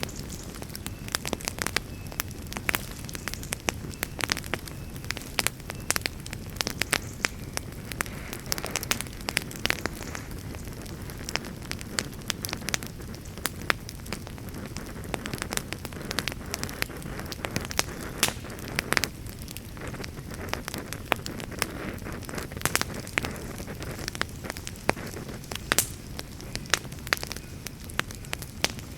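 Campfire burning with a steady low rumble and frequent sharp crackles and pops, several a second.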